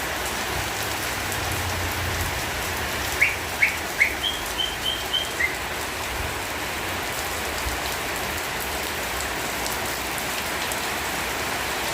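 Steady rain falling. A few seconds in, a bird briefly chirps a quick run of short notes over it.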